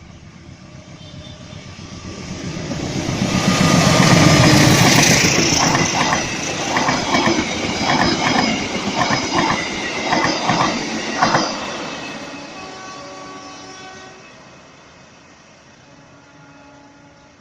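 Passenger train passing close by: its approach builds to a loud peak about four seconds in, then its wheels click over the rail joints about twice a second before the sound fades away.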